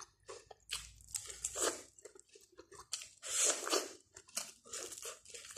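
A person biting kernels off a boiled corn cob and chewing them, with small crunches and two longer spells of chewing, about a second in and about three seconds in.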